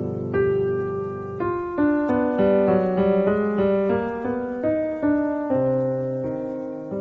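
Background piano music: a slow melody of single notes that ring and fade.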